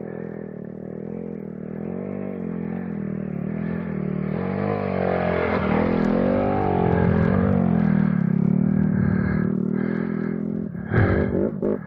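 KTM adventure motorcycle engine revving up and down, its pitch swinging and its sound getting louder through the middle seconds. A few sharp knocks come near the end.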